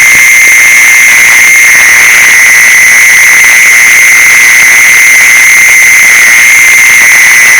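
An insect's loud, continuous high-pitched trill holding one steady pitch, over a hiss.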